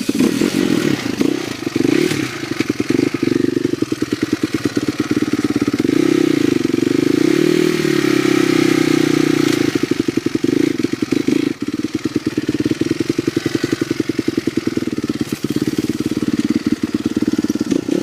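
Dirt bike engine running steadily with a fast, even firing beat, rising briefly in pitch about seven or eight seconds in and settling back down.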